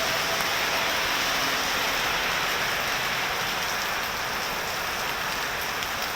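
Steady rain falling, an even wash of drops with no let-up.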